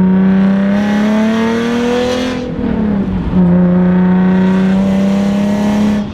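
Nissan 370Z's 3.7-litre V6 exhaust note under acceleration, its pitch climbing steadily, then dropping at an upshift about three seconds in and holding steady after it.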